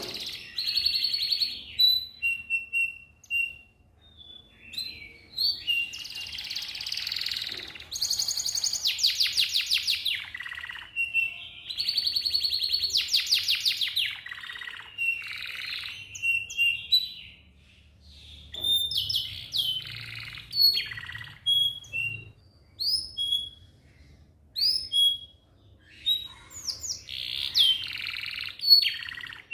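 Domestic canary singing a long, continuous song: fast rolling trills and rapid runs of repeated notes, mixed with single chirps and short whistles.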